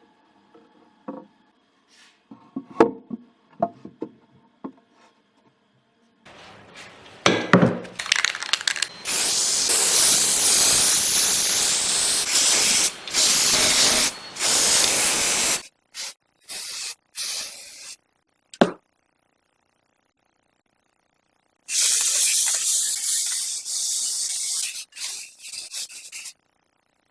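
Hissing spray in two long bursts of several seconds each, with a few short puffs and a sharp click between them, after some light knocks of parts being handled.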